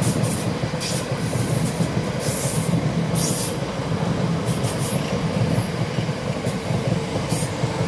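South Western Railway electric multiple unit passing close by: a steady rumble of wheels on rail, with short high hissing bursts coming and going throughout.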